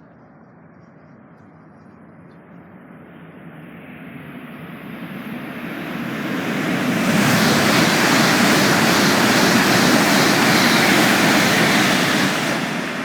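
Joetsu Shinkansen train running into the station along the platform: a steady rushing of wheels and air that swells to a loud peak for several seconds and starts to die away near the end.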